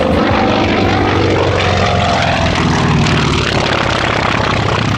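Grumman F4F Wildcat's Pratt & Whitney R-1830 Twin Wasp radial engine and propeller running at power as the fighter flies by. The tone falls slightly in pitch over the first couple of seconds.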